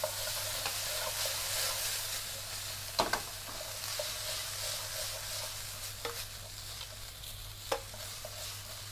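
Chicken, eggplant, tomatoes and green chili peppers sizzling in a frying pan as they are stirred, with a few sharp knocks of the utensil against the pan.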